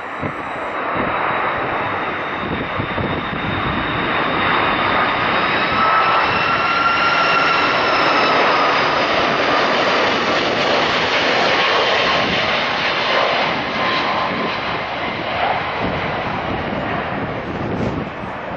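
Airbus A330-200 jet airliner with General Electric CF6 turbofans passing on its landing approach: a loud jet rush with a high engine whine that slowly bends in pitch. It builds to its loudest in the middle, then eases away.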